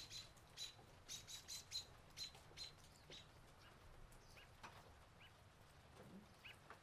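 Faint bird chirping: a quick run of short, high chirps, two or three a second, that thins out to a few scattered ones after about three seconds.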